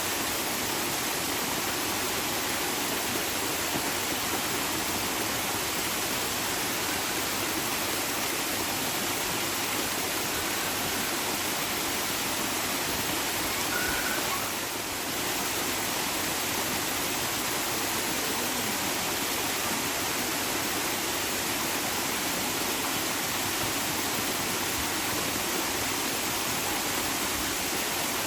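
Steady rushing of flowing water, with a brief dip in level about halfway through.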